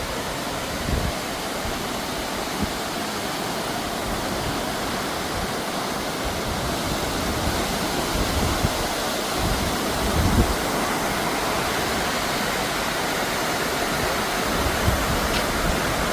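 Waterfall cascading: a steady rushing roar of falling water, with a few low bumps of wind on the microphone.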